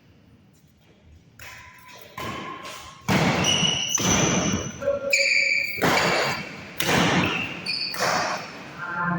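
Badminton rally on an indoor court: a run of thuds and sharp impacts from racket strikes and footwork, with short squeaks of shoes, coming every second or so after a quiet start.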